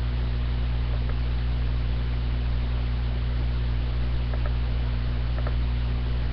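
Steady electrical hum with an even hiss underneath, with a few faint ticks near the end.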